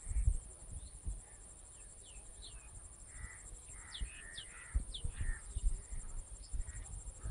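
Birds calling: several short calls falling in pitch, with harsher caw-like calls among them, thickest in the middle of the stretch, over a steady high buzz. Low bumps on the microphone now and then.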